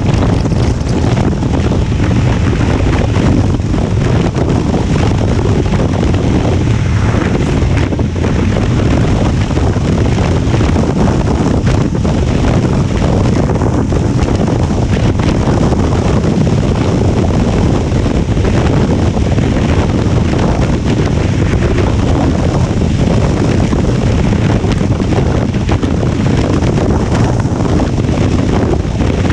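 Strong wind buffeting the microphone while riding a Honda Transalp 750 motorcycle: a steady, loud rush of wind noise with no clear engine note.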